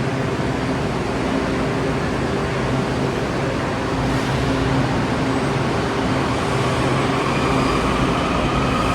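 Washington Metro train with its doors just closed, its propulsion humming steadily, then an electric motor whine rising in pitch from about seven seconds in as it starts to pull away.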